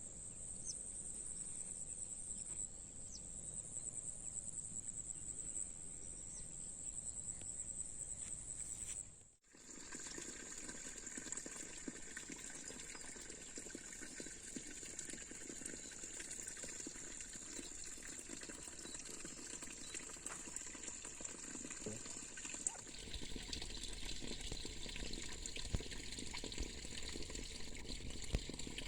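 Running water trickling and gurgling steadily, with a constant high-pitched insect chirring over it. The sound drops out briefly about nine seconds in and changes character around 23 seconds, as at a cut between recordings.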